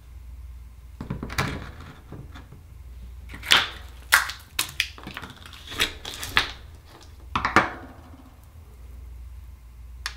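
Akoya oyster shells being handled and opened: a series of separate hard clicks and knocks of shell and tool over a faint steady low hum.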